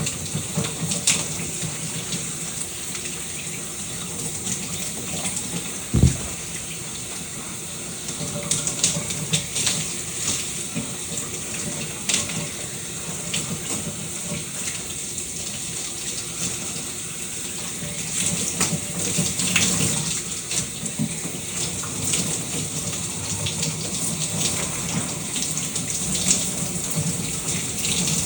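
Shower running, the water spattering with many small irregular splashes. A single dull thump comes about six seconds in.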